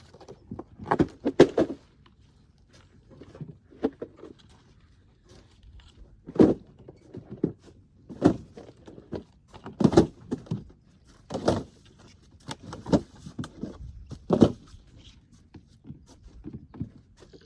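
A series of hollow knocks and thuds as waffle pods are set and pressed into place: a quick cluster early, then single knocks about every second and a half in the second half.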